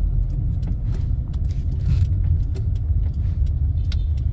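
Low road rumble of a moving car, with frequent small rattles and clicks throughout.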